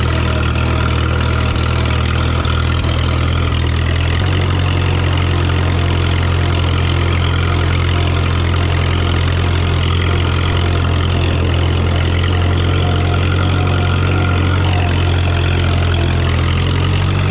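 1954 Minneapolis-Moline UBU tractor's four-cylinder spark-ignition engine running steadily, freshly tuned with new plugs, points and a cleaned carburetor. The engine note changes about four seconds in.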